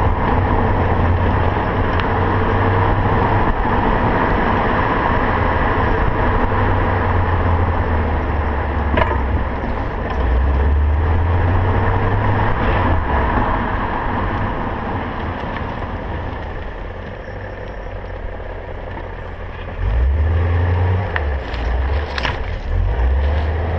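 2000 BMW M5 driving slowly, its engine and road noise steady, with a few sharp knocks over the span. These are the front-end clunk over bumps, which persists after new sway bar links were fitted.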